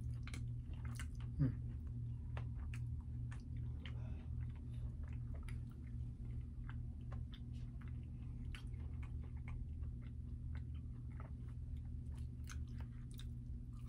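Close-up chewing and crunching of fried chicken, with the soft cartilage on the bone bitten through in many small crisp clicks. A steady low hum runs underneath.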